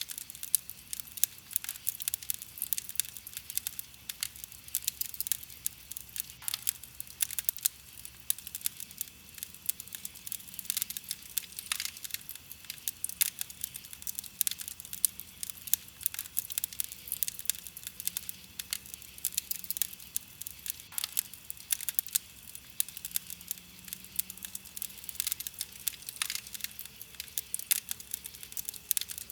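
Wood campfire crackling: a dense, continuous run of small sharp crackles, many a second, with a louder pop every few seconds.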